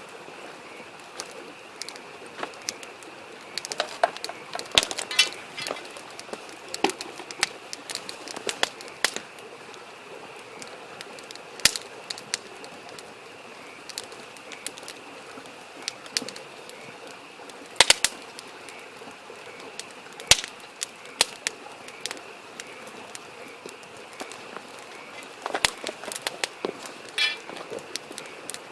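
Wood campfire crackling, with irregular sharp pops, some loud, over the steady rush of a small stream. A frog calls in short pulsed trills about four seconds in and again near the end.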